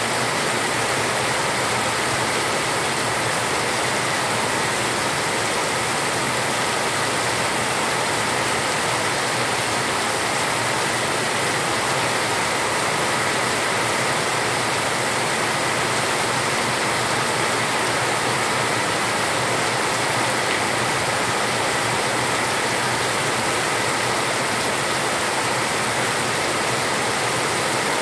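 Heavy rain pouring steadily onto a concrete yard, a dense even hiss with no letup.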